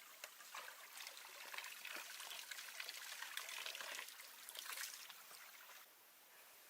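Water trickling with a light crackle, swelling and then stopping just before the end.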